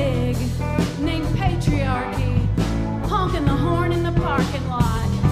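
Live band music with a steady drum beat and bass under a lead line that slides between notes.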